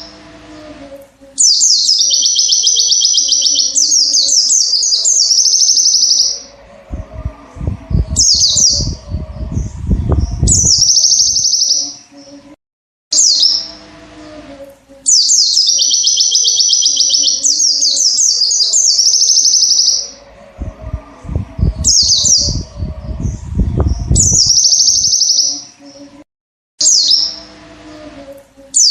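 White-eye (pleci) singing long, rapid, high-pitched twittering phrases, broken by short pauses, in a pattern that repeats about every 13 seconds. Between some phrases there are stretches of low rumbling noise.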